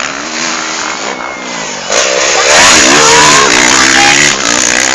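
Motocross dirt bike engines revving and accelerating, rising and falling in pitch. They get markedly louder about two seconds in.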